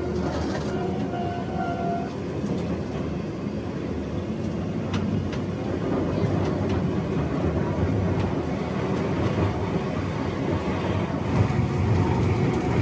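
Enoden (Enoshima Electric Railway) train running, heard from inside the car: a steady low rumble with occasional clicks from the wheels on the track.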